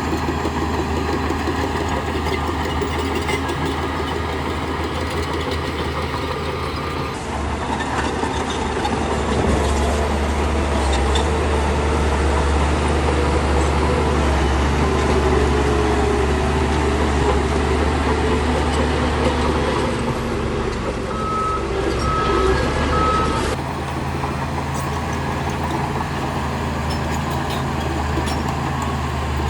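Bulldozer's heavy diesel engine running steadily, louder through the middle stretch as it works. Near the end, a reversing alarm gives three short beeps.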